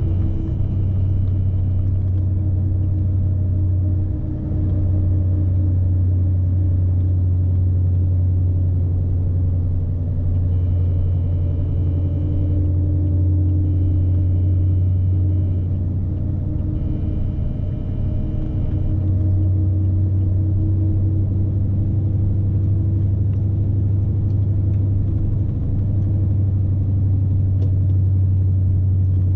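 Steady low drone of a loaded Scania S520 truck's V8 diesel and drivetrain heard from the cab while driving, dipping briefly a few times as the load eases.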